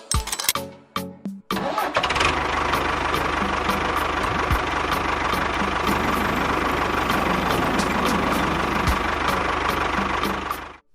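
Music for the first second and a half, then a motor starts abruptly and runs steadily, a continuous hum with regular ticking.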